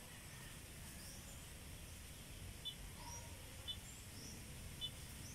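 Faint outdoor ambience with birds chirping now and then in short rising notes. From about halfway in, a short high pip repeats about once a second.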